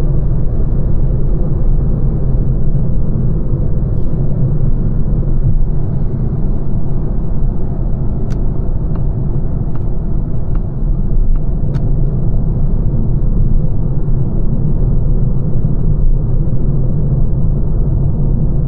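Lancia Ypsilon driving along, a steady low road and tyre rumble, with a short run of faint ticks midway.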